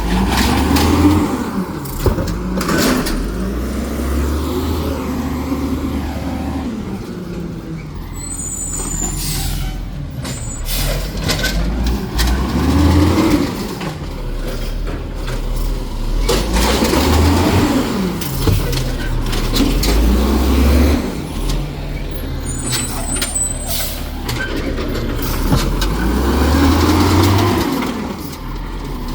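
Garbage truck engine revving hard over and over, rising and falling every few seconds, as it powers the hydraulics that compact the trash. Sharp air-brake hisses and clanks break in between the revs.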